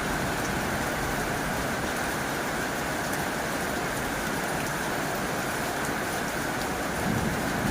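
Heavy rain on a tin roof: a steady, dense hiss with scattered drop ticks. A low rumble starts building near the end.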